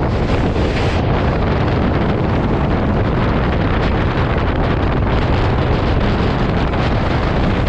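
Loud steady rumbling noise with wind buffeting the microphone.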